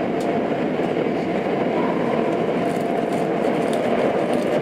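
Tokyo Metro 02 series subway car running at speed through a tunnel, heard from inside the car: a steady rumble of wheels on rail with a faint steady whine and a few light clicks.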